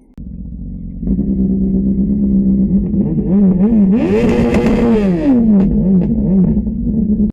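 A performance engine running loudly, then revved several times between about three and six seconds in, the biggest rev climbing, holding briefly and falling back.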